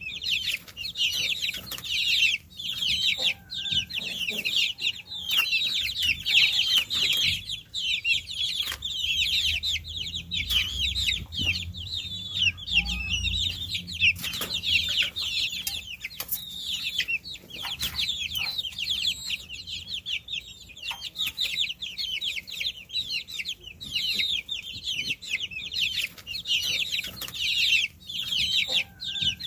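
Many baby chicks peeping continuously, a dense overlapping chorus of short, high, downward-sliding calls.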